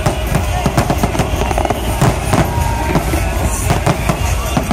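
Fireworks display: many aerial shells bursting at once in a quick, continuous run of bangs and crackling.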